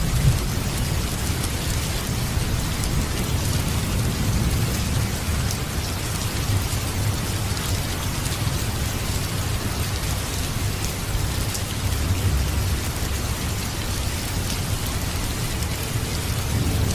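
Steady heavy rain falling, with a continuous low rumble of thunder underneath and scattered faint sharp ticks.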